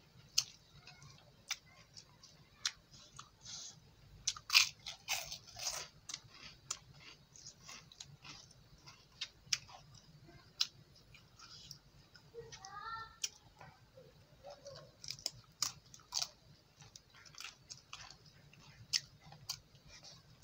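A person chewing with the mouth open while eating rice and meat by hand: irregular wet smacks and mouth clicks, loudest in a cluster about four to six seconds in.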